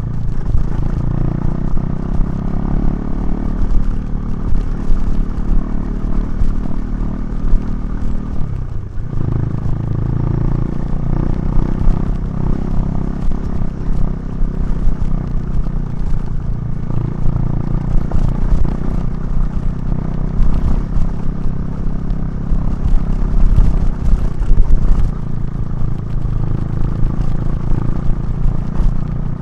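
KTM 390 Duke's single-cylinder engine through a Remus aftermarket exhaust, running under way as the motorcycle is ridden. The engine note falls sharply for a moment about nine seconds in, then picks up again.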